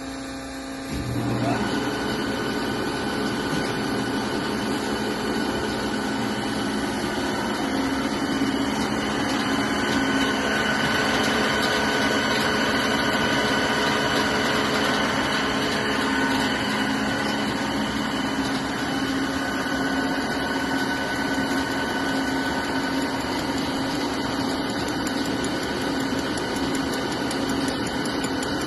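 Hegenscheidt deep hole drilling machine starting its automatic feed cycle about a second in, then running steadily with a constant mechanical hum and a few steady whining tones over its hydraulic hum.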